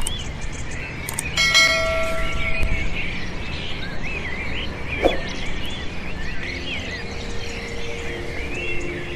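Many birds calling at once, a continuous chatter of quick wavering high chirps. A bell-like chime rings for about a second and a half near the start, and soft sustained music tones come in near the end.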